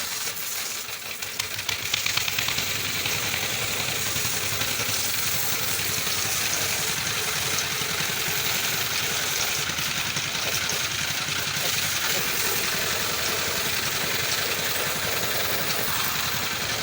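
Steady mechanical running noise, like a motor or engine, that gets louder about two seconds in and then holds even.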